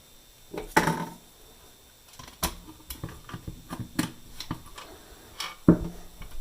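Small clicks, taps and knocks of radio parts being handled and fitted into the case. There is a short clatter about a second in, a scatter of light ticks through the middle, and a sharper knock near the end.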